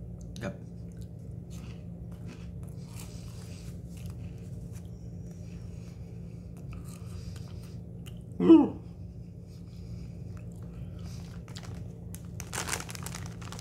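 Chewing and crunching of Cheetos Flamin' Hot Puffs, faint crunches at intervals over a steady low hum. About two-thirds of the way through comes a short, loud vocal exclamation that falls in pitch, and near the end a brief burst of hiss.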